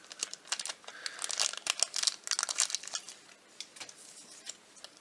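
Blind-box packaging crinkling and crackling as hands work at opening it, busiest over the first three seconds, then only a few faint crackles.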